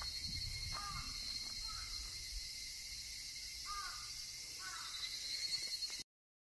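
Outdoor ambience: a bird calls four short times over a steady high hiss, and the sound cuts off suddenly about six seconds in.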